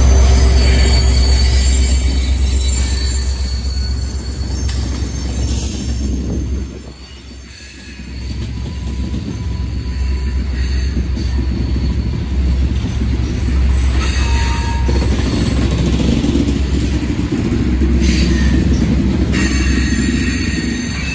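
A loaded coal train rolling past: first a diesel locomotive's engine rumble, then loaded coal gondolas rolling by with steady wheel-and-rail rumble. It eases off briefly about seven seconds in, and high-pitched wheel squeal comes and goes in the second half.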